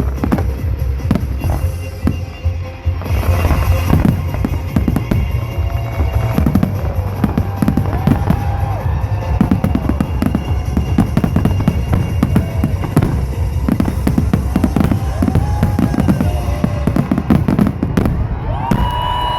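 Fireworks display: a rapid salvo of bangs and crackles that thickens about three seconds in into a dense, near-continuous barrage.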